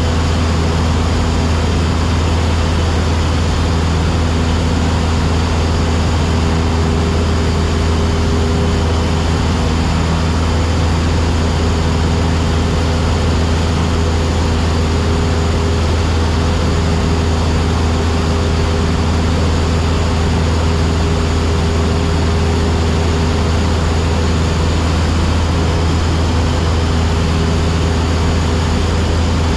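Cessna 172SP's four-cylinder Lycoming IO-360 engine and propeller droning steadily in level cruise, heard from inside the cabin.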